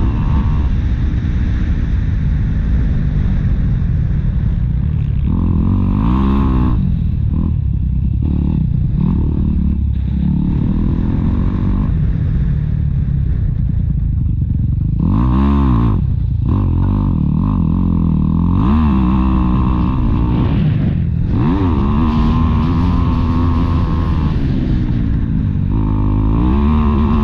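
Motocross dirt bike engines revving, the pitch climbing and dropping again and again as the bikes accelerate and ease off.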